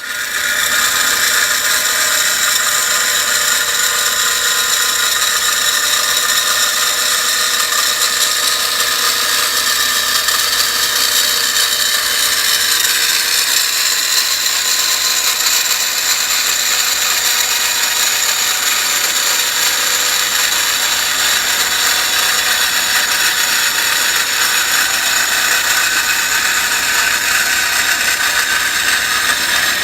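A power tool or machine tool running continuously in a metal fabrication shop, a loud steady noise carrying several high, constant whines.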